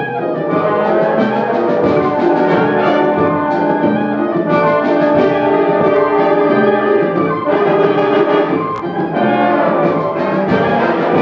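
High school symphonic band playing, the brass to the fore in sustained, full chords that change every second or so.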